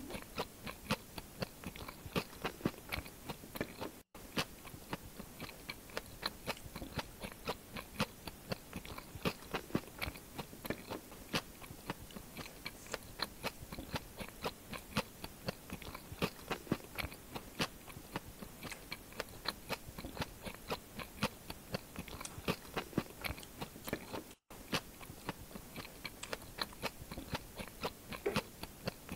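Close-miked chewing and biting of crispy fried food: a dense, steady run of small crunches and wet mouth clicks.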